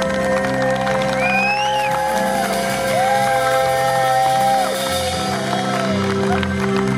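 Live band playing long sustained chords at the end of a song, with a high rising whoop about a second in and some shouting from the audience.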